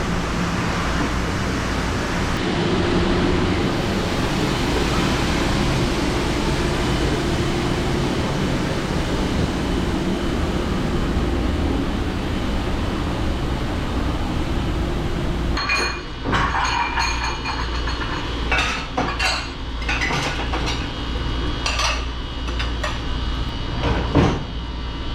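Steady rushing noise with a low hum from the dish station, then, from about two-thirds of the way in, dishes and cutlery clinking and clattering as they are handled.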